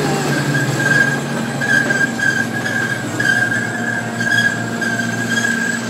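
Zoo ride train running on its track, a steady rumble with a steady high-pitched tone over it.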